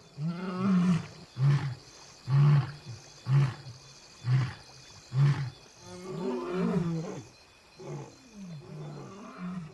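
Male lion roaring to proclaim territory: a long moaning roar, then a run of short, loud grunts about once a second that weaken and trail off near the end.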